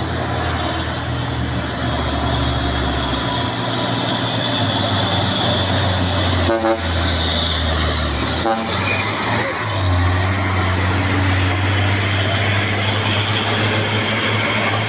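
Heavy truck diesel engine running loudly and steadily, its low hum shifting in pitch a few seconds in and again past the middle as the engine load changes.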